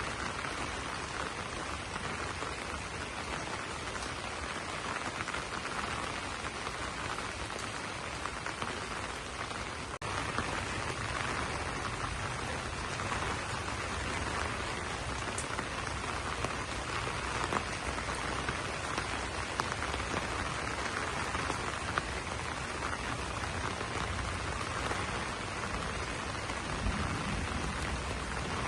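Steady rain falling on broad banana leaves: a dense, even patter of drops with a brief dip in level about ten seconds in.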